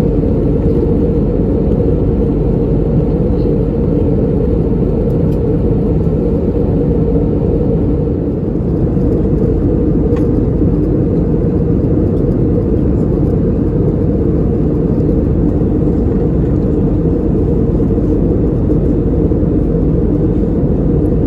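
Airbus A320neo cabin noise in cruise: a steady, loud drone of engines and airflow, mostly low-pitched, with a faint steady hum on top.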